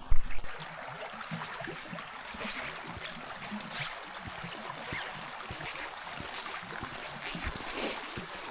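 Creek water running steadily as a constant hiss, with a few faint clicks. A short, loud low thump right at the start.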